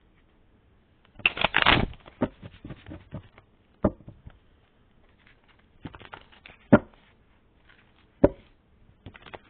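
A deck of tarot cards being shuffled and handled: a quick run of card flicks about a second in, then single sharp card taps every second or two.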